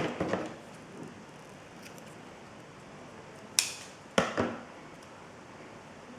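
Scissors snipping through paper in short sharp clicks: a few snips at the start, one crisp snip about halfway through, and a few more soon after.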